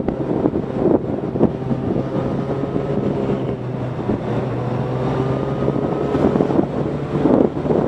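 Motorcycle engine running steadily while riding, with wind noise buffeting the microphone.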